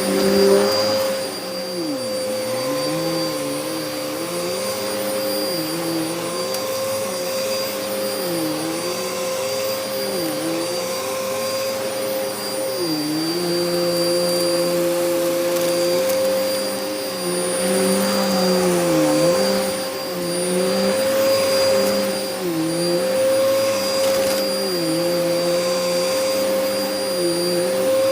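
Hoover vacuum cleaner with a brushroll running continuously, a steady whine over a lower motor tone that sags in pitch and recovers every one to two seconds. The owner describes the vacuum as clogged.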